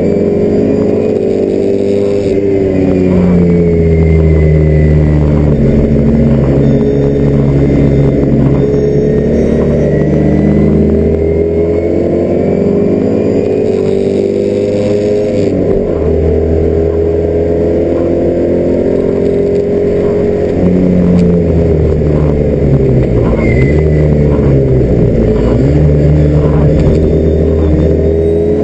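Alfa Romeo Alfetta GTV 2000's twin-cam four-cylinder engine with Spica mechanical fuel injection, heard from inside the cabin under hard racing load. Its pitch climbs with the revs and drops at each gear change or lift, with a dip and a climb back up near the end.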